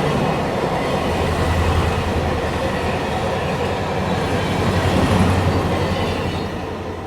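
A train running on the rails: a loud, steady rumble of wheels and running gear that starts to fade near the end.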